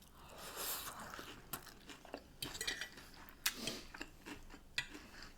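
Close-miked eating: crunching and chewing of battered fish and chips, with a few sharp clicks spread through it.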